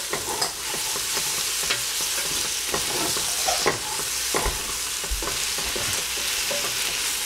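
Eggplant with prunes sizzling in a stainless steel pot while being stirred with a wooden spatula: a steady frying hiss with scattered scrapes and knocks of the spatula against the pot. The dish is almost done.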